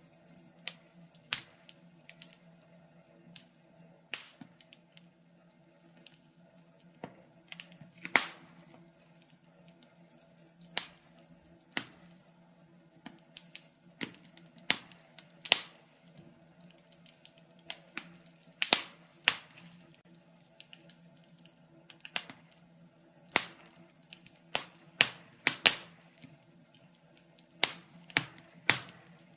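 Wood fire crackling: sharp irregular pops and snaps at uneven intervals, a few of them louder, over a faint steady low hum.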